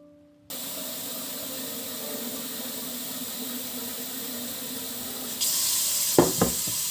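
Water from a tap running into a sink, turned on about half a second in and running harder near the end. A few sharp knocks come just after six seconds.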